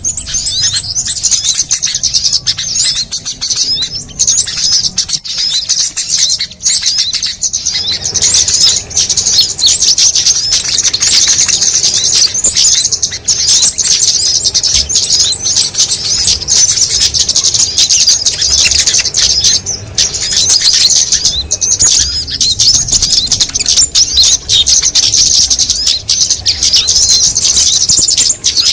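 Bird-lure (pikat) recording of many small songbirds calling at once: a dense, unbroken chorus of fast, high-pitched chirps and twitters layered over each other, loud and continuous, made to draw in small birds.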